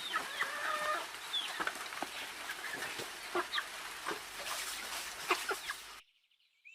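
Chickens clucking, a run of short, scattered high calls over a steady background hiss. The sound cuts off about six seconds in.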